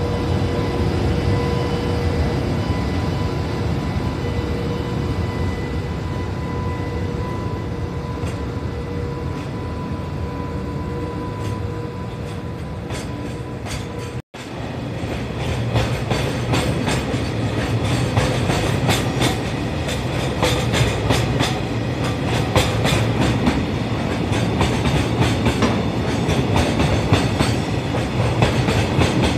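Train running, with a steady whine through the first half. After a short break about halfway, a louder rattle and the clatter of wheels over rail joints.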